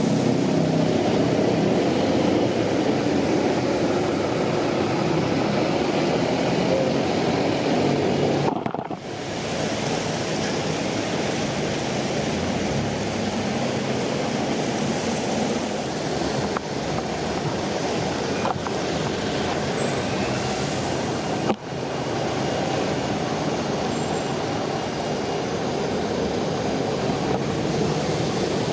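Steady road-vehicle engine and traffic noise, a low rumbling haze, broken by two brief sharp dropouts about nine and twenty-two seconds in.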